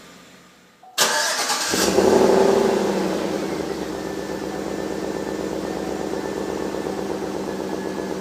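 2011 Chevrolet Tahoe's Vortec V8 cold-started. About a second in, the starter cranks briefly, then the engine catches and flares up. It then settles to a steady idle.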